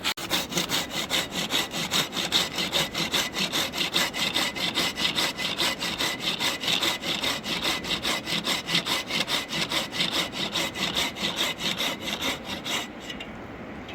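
Hand saw cutting through wood with quick, even back-and-forth rasping strokes, stopping about a second before the end.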